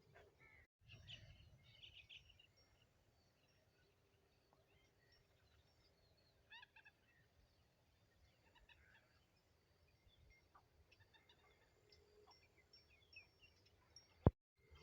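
Faint calls of several birds: short high chirps and trills scattered throughout, with a sharp click near the end.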